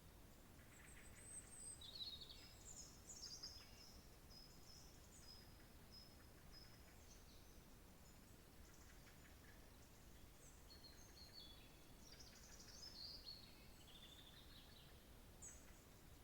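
Faint birdsong: several birds singing short, high chirps and trills, in two busier spells near the start and in the second half, over a faint low background hum.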